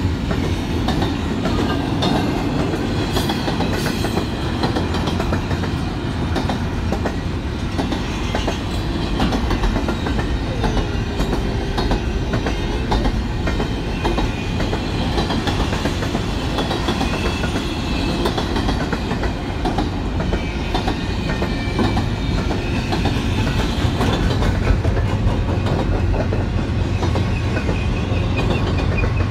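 Double-stack intermodal freight cars rolling steadily past, their wheels clattering over the rail joints and crossing. A low steady hum grows louder over the last few seconds.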